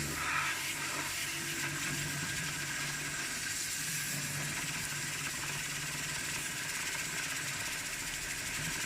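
A steady hiss with a faint low hum underneath, even throughout.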